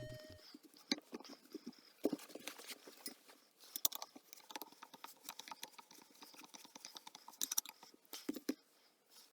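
Quiet, irregular light clicks and knocks, like small parts and hand tools being handled during the scooter repair, with a few louder knocks spread through.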